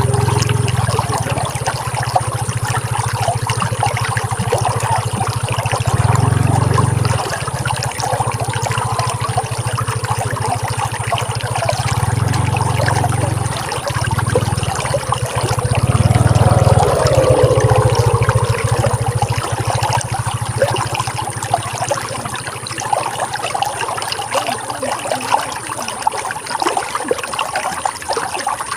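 Running water flowing steadily, a continuous splashing rush with a low rumble that swells and eases every few seconds.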